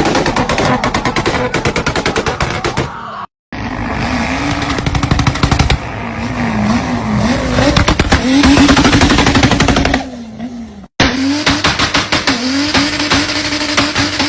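Car engines held on a two-step launch limiter, the engine note pinned at one speed while the exhaust pops and bangs in a rapid machine-gun rattle. The sound drops out briefly twice and starts again on another car doing the same.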